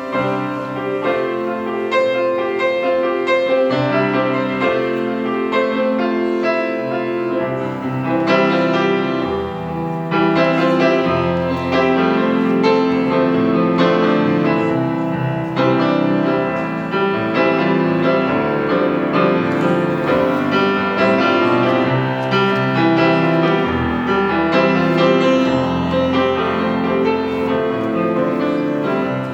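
Solo piano playing a slow, gentle piece as offertory music.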